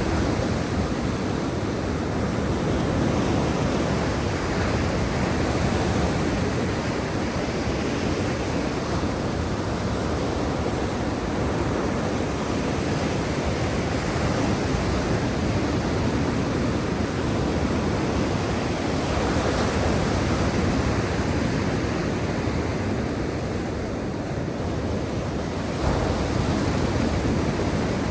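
Sea surf washing steadily onto the shore, a continuous rush that swells and eases slowly, with a louder surge near the end.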